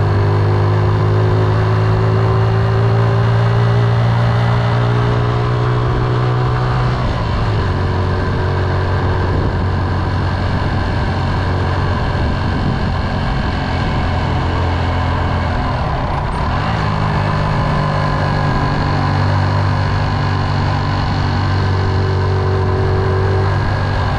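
Motorcycle engine running steadily while riding. Its note shifts about seven seconds in and changes back about sixteen seconds in.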